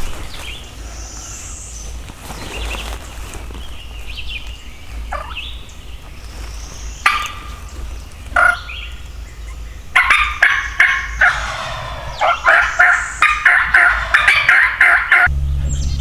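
Wild turkeys gobbling: a couple of single calls, then from about two-thirds of the way in, a dense run of rapid rattling gobbles that stops abruptly just before the end.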